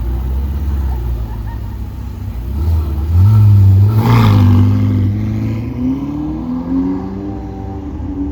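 A supercar's engine running low, then revving up and pulling away. It is loudest from about three to five seconds in, with a short burst of noise near four seconds, and the engine note climbs in pitch in steps through the last few seconds.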